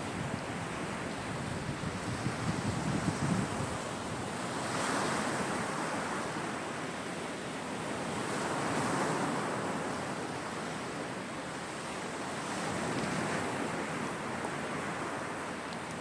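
Sea waves breaking and washing on a shore, the surf swelling about every four seconds over a steady rush of wind.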